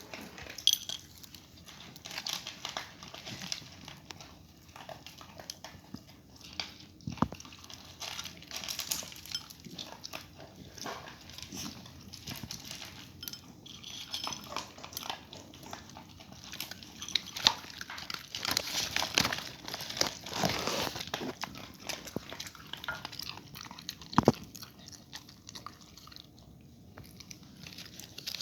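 A dog chewing and crunching its food, with many irregular clicks and crackles.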